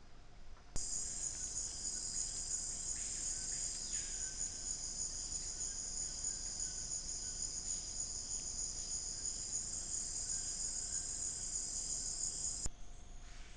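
A dense, steady chorus of crickets and other insects, a high, finely pulsing buzz. It starts abruptly about a second in and cuts off abruptly near the end.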